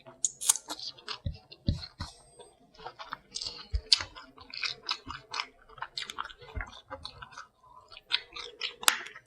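Close-miked eating sounds: wet chewing and lip smacking in quick, irregular clicks, with a few soft low thumps along the way.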